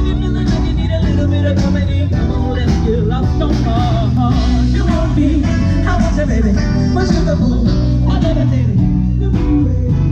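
Live band playing rock/blues-style music with electric guitar and vocals.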